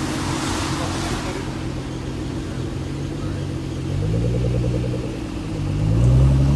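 Nissan GT-R engine idling, blipped twice: a short rev about four seconds in and a stronger one near the end.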